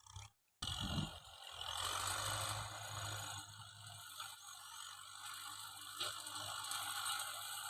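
Kubota M6040 tractor's diesel engine running steadily under load while plowing, with a constant low hum. It cuts in abruptly under a second in.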